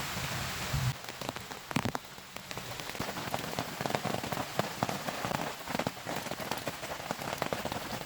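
Heavy rain falling, with close raindrops striking a surface as a dense run of sharp ticks over a steady hiss. The first second or so is an even, smoother rush of rain before the ticks begin.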